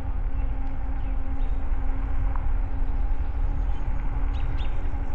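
Wind rumbling steadily on the microphone of a camera riding along on a moving e-bike, over a steady low hum. A couple of faint bird chirps come near the end.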